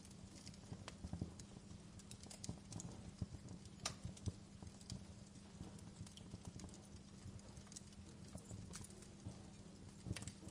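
Wood fire crackling: irregular sharp pops and snaps over a low steady rumble, with the sharpest pop about four seconds in.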